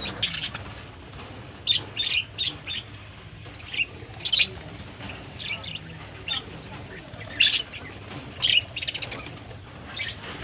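Small birds chirping in short, irregular calls, a few notes at a time with gaps between, over a faint low steady hum.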